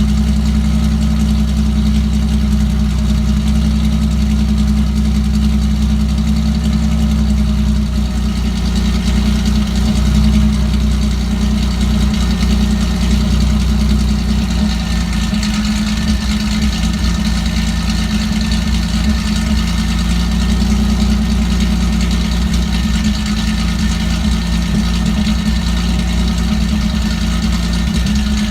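Car engine idling with a misfire, running steadily at first and then less evenly about halfway through.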